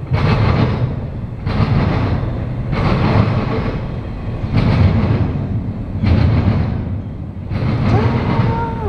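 Intermodal freight train's cars rolling past, the wheel noise swelling roughly every second and a half as each car goes by. Near the end a steady tone slides up, holds for about a second and drops away.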